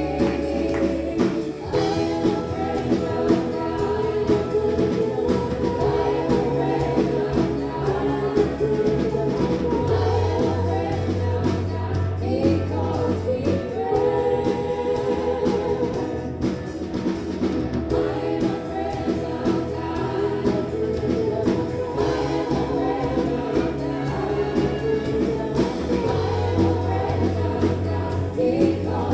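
Gospel-style worship music with a choir of voices singing over a steady beat and sustained bass notes that shift every few seconds.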